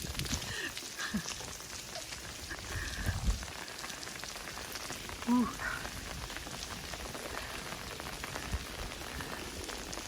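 Heavy rain falling, a dense steady patter of drops, with one brief pitched call about halfway through.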